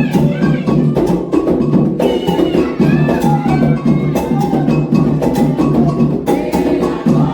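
Candomblé ritual drumming for Oxum and Logun Edé: atabaque hand drums and a struck bell keep a steady, dense rhythm, with voices singing over it.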